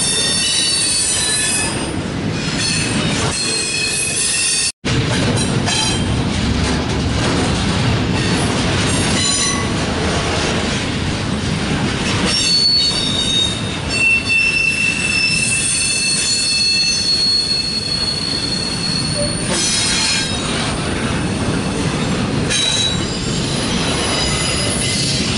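Double-stack intermodal freight cars rolling past close by: a steady rumble and rattle of wheels on rail, with a high steady wheel squeal for several seconds around the middle. A momentary gap in the sound about five seconds in.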